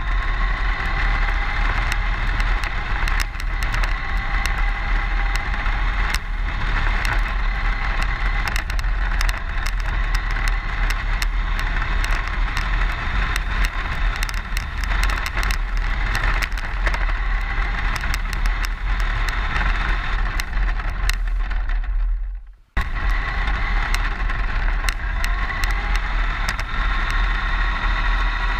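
A vehicle running steadily, with a low rumble, a whine that wavers slightly in pitch, and many small clicks. The sound cuts out abruptly for a moment about 22 seconds in.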